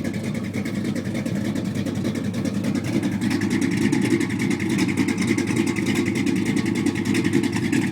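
Small-block 350 V8 in a 1985 Chevrolet S10 running through dual exhaust with 40 Series Flowmaster mufflers. It runs steadily and gets louder about three seconds in.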